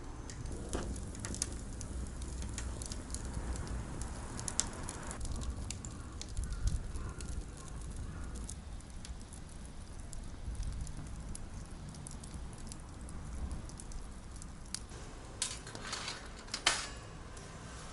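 Small wood fire burning in a compact firepit, crackling with scattered pops over a low steady rumble, with a few louder clicks near the end.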